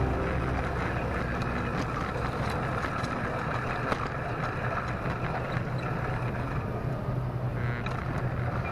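Model train running on the layout: a steady rumbling hum with a few faint clicks.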